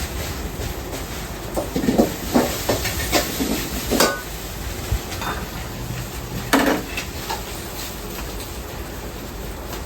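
Ramen shop kitchen at work: a quick run of clatters and clinks from bowls, ladles and utensils between about one and a half and four and a half seconds in, and another clatter near seven seconds, over a steady background hiss.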